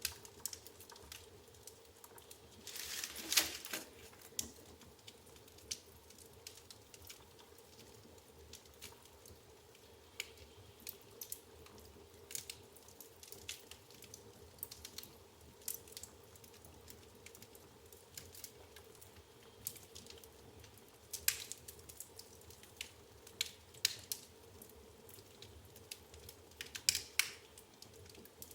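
Firewood burning in an open fireplace, crackling with irregular pops and snaps. A short burst of hissing crackle comes about three seconds in, and clusters of louder pops come later on.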